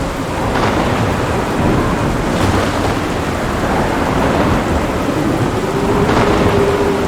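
Thunderstorm: steady heavy rain with a continuous low rumble of rolling thunder, and a few brief sharper crackles over about a second in, midway and near the end.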